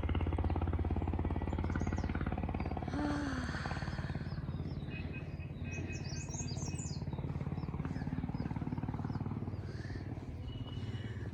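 Small birds chirping in short bursts of quick high notes, twice, over a steady low rumble.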